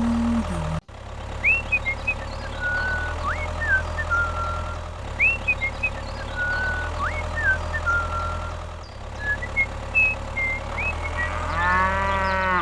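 A steady engine hum with short, high chirps repeating over it every few seconds. Near the end a pitched call rises and falls.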